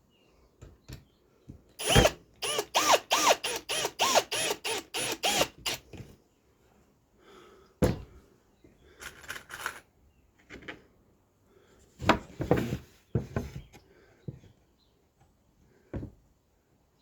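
A power tool driving fasteners into wood: a quick run of about a dozen short, sharp bursts, roughly three a second, then a few single ones spread further apart.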